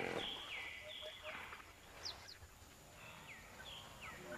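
A bird calling: a series of short whistles, each sliding down in pitch, about two a second. They stop for about a second midway, then resume.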